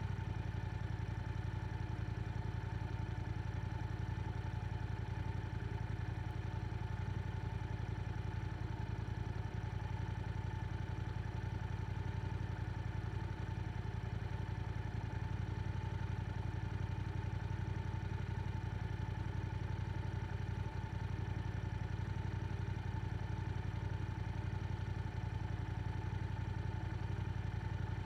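Yamaha R7 parallel-twin motorcycle engine with an Akrapovic exhaust, running steadily at one unchanging engine speed with a deep, even note.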